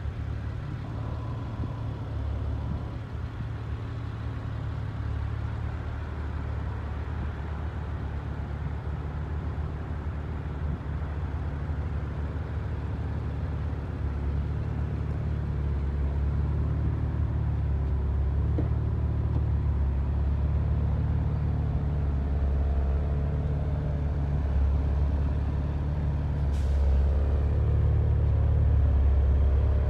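2018 Porsche Macan GTS's twin-turbo V6 idling steadily, a low even hum that grows louder near the end.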